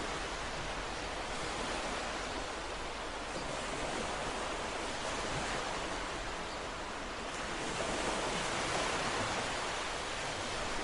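Ocean waves breaking and washing on a shore in a steady, even rush, swelling slightly with each wave.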